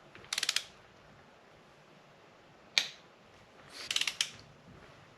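Click-type torque wrench tightening cylinder head bolts on an LS 6.0 engine, the first pass at 25 ft-lb. A short run of ratchet clicks, a single sharp click a little under three seconds in as the wrench breaks over at the set torque, then another run of ratchet clicks about four seconds in.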